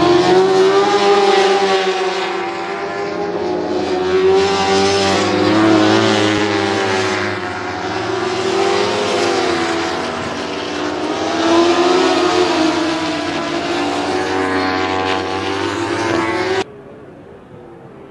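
Superbike racing motorcycles running hard on track, their engine note rising and falling as the riders go through the gears. Near the end the sound cuts off abruptly to a much fainter engine drone.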